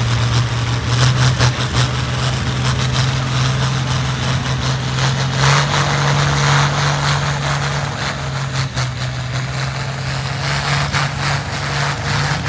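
Pulling tractor's engine running steadily with a deep drone, its pitch stepping up about five and a half seconds in.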